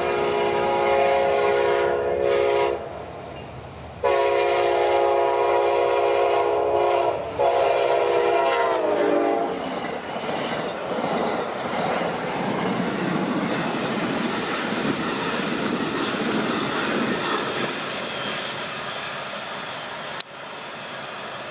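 Amtrak P42DC diesel locomotive's horn sounding a blast of about three seconds, then a longer one whose chord drops in pitch as the locomotive goes past. Then the steady rush and clatter of the passenger cars rolling by.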